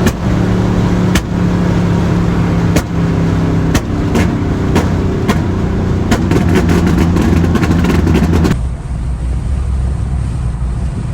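Chevrolet 5.3-litre V8 running through long-tube headers and a full 3-inch exhaust with a Magnaflow Magnapack, driving, its note shifting in steps, with scattered sharp cracks. About eight and a half seconds in, the upper hiss drops away and a low rumble remains.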